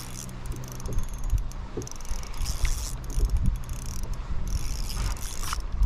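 Fishing reel being cranked to bring in a hooked fish: a steady mechanical whirring with many small clicks.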